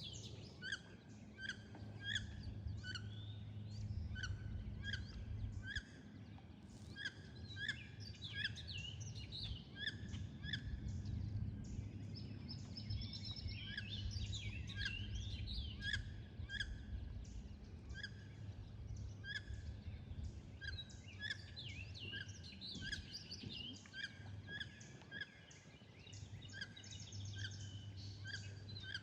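Ducklings peeping, a short high note repeated about twice a second, with other quicker chirps over it and a steady low hum beneath.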